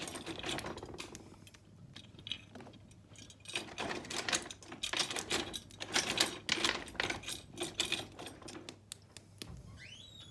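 Lumps of coal knocking and clattering against each other and the grate as they are put onto a fire in an open fireplace, a quick irregular run of small hard clicks that pauses for a couple of seconds early on and then picks up again.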